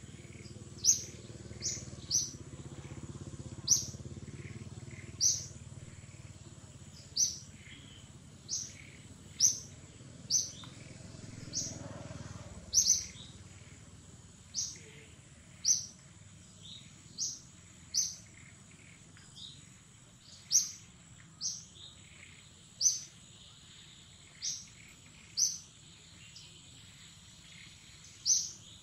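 A bird calling with short, sharp, high chirps, repeated irregularly about once a second, over a faint steady high-pitched hum.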